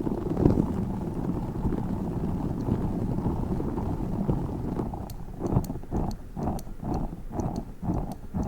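Tiny spiky orbeez ball handled close to the microphone: a dense, low rubbing rustle, then from about five seconds in a rhythmic squishing of about three squeezes a second with faint sharp clicks.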